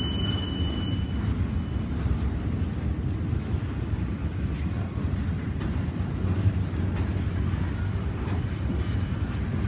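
Train rolling past with a steady low rumble, and a thin high whine that stops about a second in.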